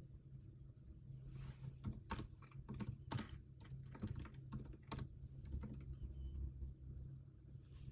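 Typing on a computer keyboard: a burst of irregular key clicks for a few seconds, trailing off with a few more near the end, over a steady low hum.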